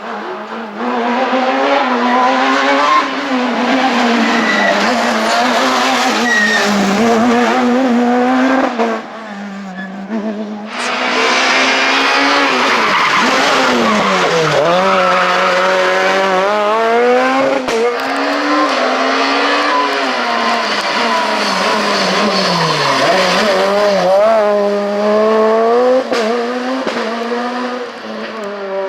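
Super 2000 rally car's naturally aspirated two-litre four-cylinder engine at high revs, pitch climbing and dropping sharply again and again through gear changes and lifts. About ten seconds in, the sound cuts abruptly to another car at full throttle.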